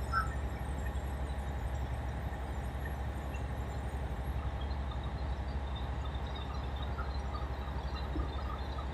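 Tugboat engine running steadily: a low drone with a fast, even pulse.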